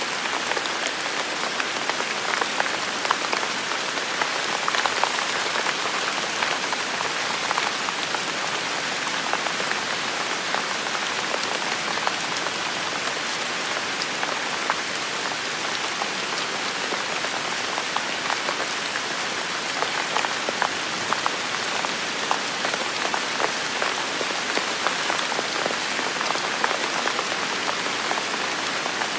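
Heavy rain falling steadily, a dense even hiss with many individual drops clicking close by.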